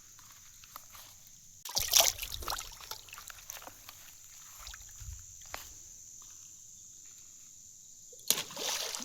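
Water splashing twice in a canal, a short burst about two seconds in and another near the end, with smaller trickles and drips between.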